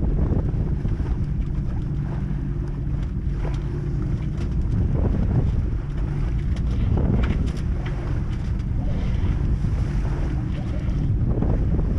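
Wind buffeting the microphone aboard a sailboat under way, over a steady low hum, with brief rushes of sound a few times.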